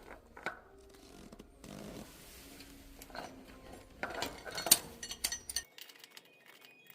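Metal clinks and knocks from tools and motorcycle fork parts being handled on a workbench, a scatter of sharp taps that is busiest and loudest about four to five seconds in.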